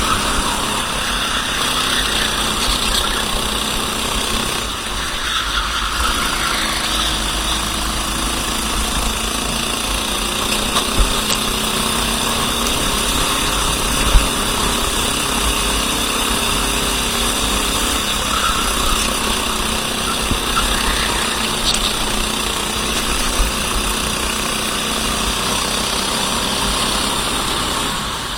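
Racing kart engine running at speed, its pitch rising and falling as the kart accelerates and lifts. The level dips briefly about five seconds in, and a few sharp clicks cut through the engine noise.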